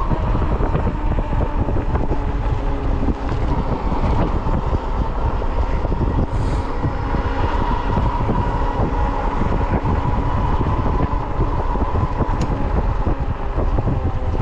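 Wind rushing over the microphone of an Ecotric fat-tire electric bike ridden at speed, with a steady whine from the drive under power.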